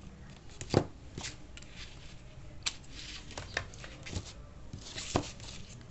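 Scattered clicks and rustling of small objects being handled, with the sharpest click about three-quarters of a second in.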